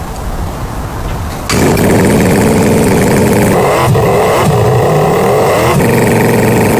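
V8 engine running: quieter for about the first second and a half, then suddenly much louder and running steadily with a fast, even beat.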